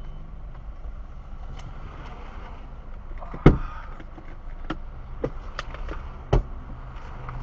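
Car engine idling with a low steady hum while the car stands still, broken by a few sharp knocks: the loudest about three and a half seconds in, another just past six seconds, with fainter clicks between.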